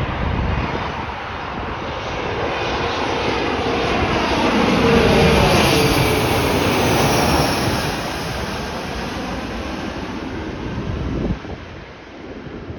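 Mitsubishi CRJ-700 (CRJ-701ER) regional jet arriving to land, its two rear-mounted turbofans passing: the jet noise builds to a peak about halfway through, with a whine that falls in pitch as it goes by, then fades away.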